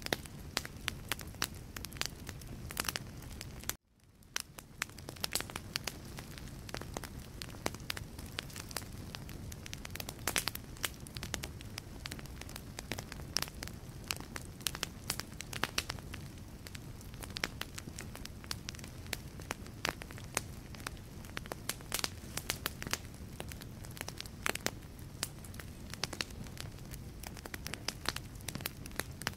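Wood logs burning in a fireplace: a steady low rumble of flame with frequent sharp crackles and pops. About four seconds in, the sound cuts out abruptly and fades back in over a second or so.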